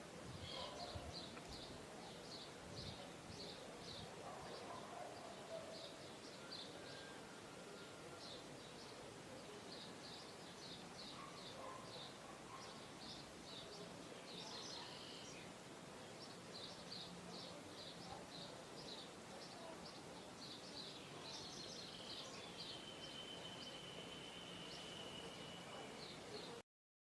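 Faint outdoor ambience with small birds chirping in quick runs of short high notes. One longer steady high note comes about three quarters through, and the sound cuts off abruptly just before the end.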